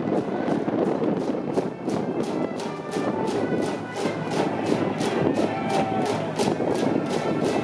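School brass band playing a cheering tune, with sustained horn notes over a steady drum beat of about four beats a second.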